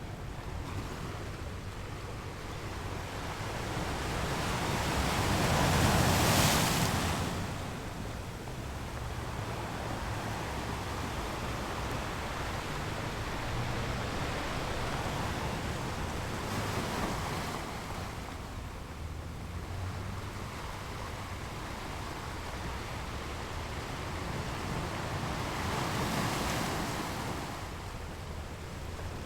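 Ocean waves rolling in and breaking on the shore, one large wave cresting about six seconds in and smaller ones later, with a steady wash of surf between.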